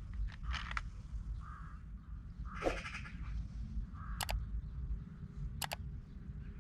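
A single short bleat from livestock about two and a half seconds in, over a steady low rumble, with a few sharp clicks scattered through.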